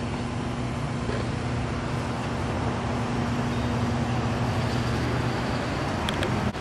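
A motor vehicle running steadily: a constant engine hum with road noise.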